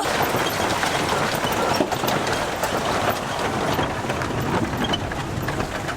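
Heavy vintage truck camper driving on a rough, muddy dirt road: a steady crackling noise of tyres and rattling, with a low rumble underneath.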